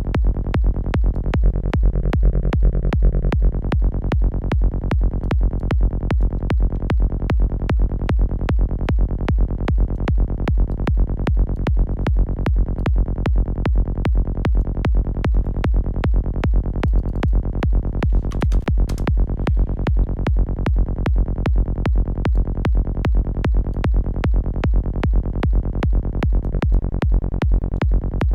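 Forest psytrance bassline synthesized in Serum 2, looping as a fast, even pulse, heavy in the low end with a dull top, while being shaped with the synth's effects.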